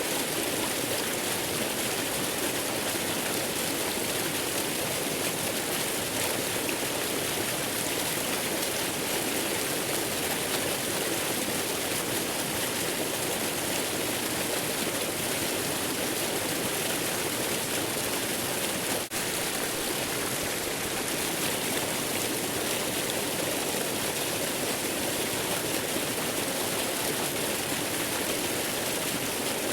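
Waterfall: a continuous, even rush of falling water with a steady hiss, with one momentary dip in level about two-thirds of the way through.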